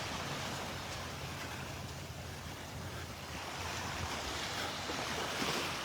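Surf washing onto a beach, a steady even wash of noise.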